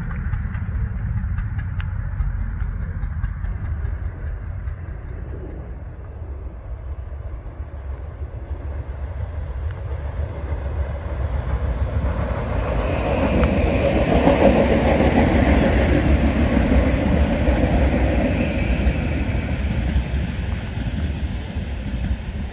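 A passenger train passing along the line, its rail noise swelling from about halfway through, loudest a few seconds later, then fading, over a steady low rumble.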